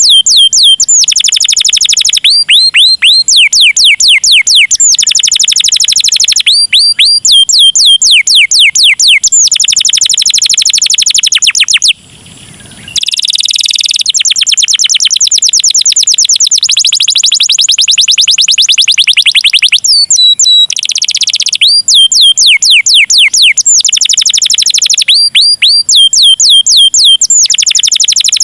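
Canary singing a long, fast song: rolls of rapid, evenly repeated high sweeping notes, switching to a new roll every second or two, broken twice by a short harsh rasp, about a third of the way in and again about three quarters through.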